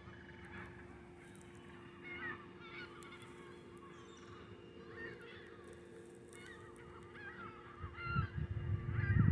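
A large flock of seagulls calling over a freshly disked field, many short overlapping calls. Loud bursts of low rumble come in near the end.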